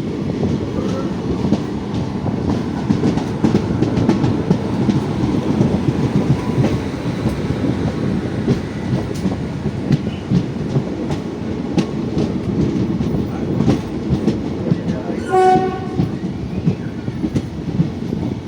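Train rolling along the platform, a steady low rumble with wheels clicking over the rail joints. A short horn blast sounds about fifteen seconds in.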